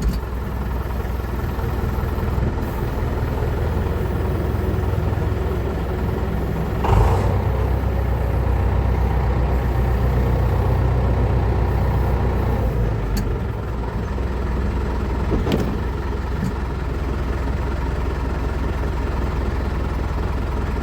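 David Brown 1490 tractor's turbocharged diesel engine running steadily at low speed, with a brief louder rush about seven seconds in.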